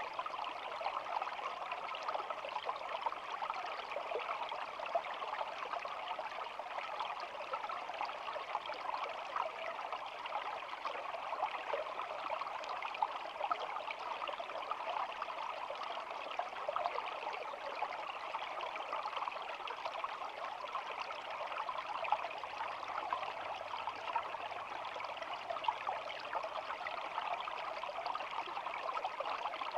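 A small shallow stream babbling steadily, with an even, fine splashing that never breaks or changes.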